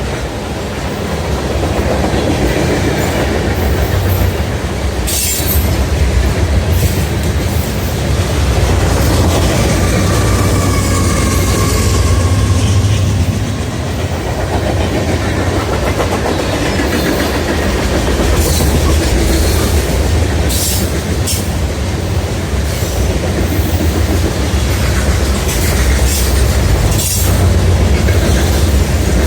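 Freight train cars rolling past with a steady rumble, wheels clicking over rail joints, and a faint wheel squeal now and then.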